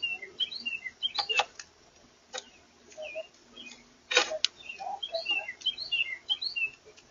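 Small birds chirping in short clusters of quick, wavering notes, with several sharp taps or knocks in between, the loudest about four seconds in.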